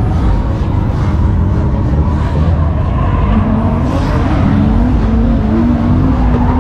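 Car engine running loud, its note steady and then rising a little and holding from about three seconds in.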